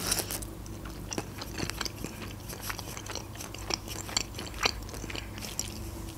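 Close-miked chewing of a fried chicken wing: small irregular mouth clicks and smacks with no words.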